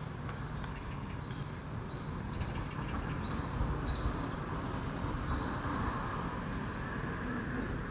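Small birds chirping: many short, quick high notes, some rising and some falling, repeated through the whole stretch over a steady low background rumble.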